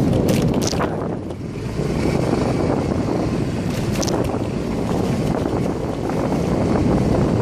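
A motorcycle riding along, its engine and road rumble mixed with heavy wind buffeting on the phone's microphone. A few brief clicks sound near the start and again about four seconds in.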